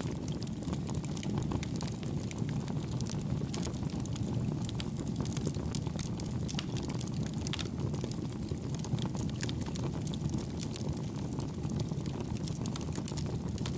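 Bonfire burning: a steady low rumble of the flames with frequent small crackles and pops from the burning wood.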